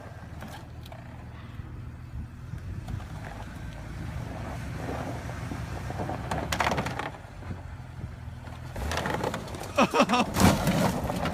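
Steady low hum of a vehicle driving, with road noise heard from inside. It grows louder and busier near the end.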